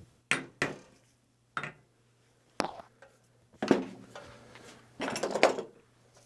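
Irregular metal knocks and clinks, about six of them with a longer cluster about five seconds in, from steel tools and parts handled at the bench while a locomotive wheel is keyed onto its axle.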